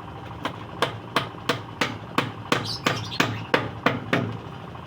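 Hammer blows driving a nail into scrap wood: a steady series of about a dozen sharp strikes, roughly three a second, each with a short ring.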